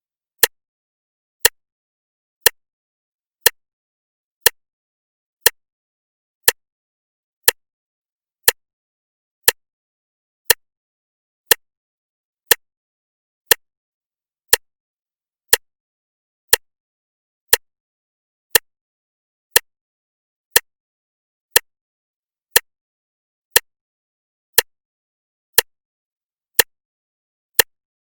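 Clock ticking steadily, one sharp tick a second, each tick alike, with silence between the ticks.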